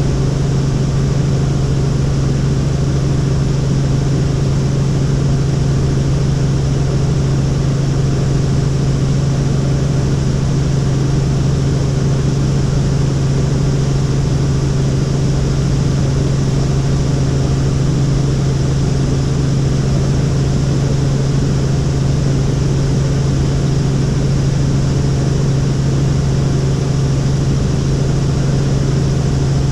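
Helicopter in flight: a loud, unbroken engine-and-rotor drone with a strong low hum.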